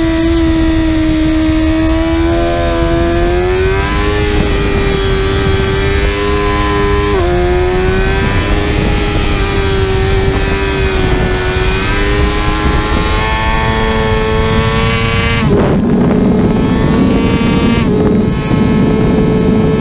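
Kawasaki ZX-6R's 636 cc inline-four engine running at high revs under hard acceleration. Its pitch climbs and steps at gear changes, about four, seven and twelve seconds in. About three-quarters of the way through, a rushing noise covers much of the engine note while a steady high tone carries on.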